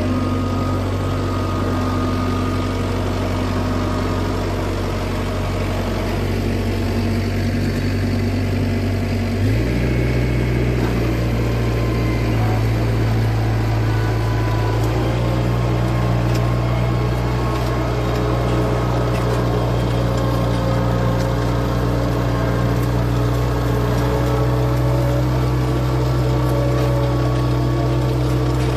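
A4800 tractor's engine running steadily, with a sudden change in engine pitch about a third of the way through and a smaller shift shortly after.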